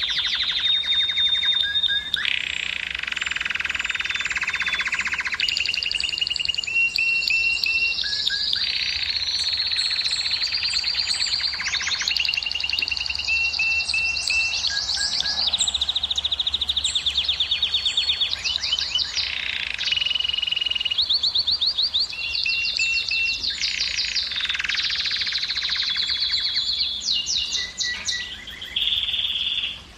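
Domestic canary singing a long, unbroken song of rapid repeated-note trills, switching from one trill to the next every second or two, with a few clear held whistles between them. This is the full breeding song used to stimulate hens to mate.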